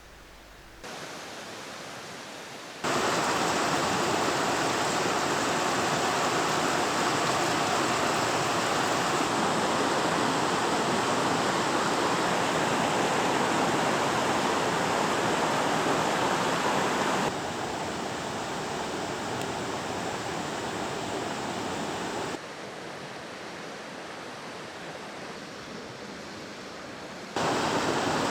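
Waterfall rushing: a steady, dense noise of falling water, its level jumping abruptly up or down several times.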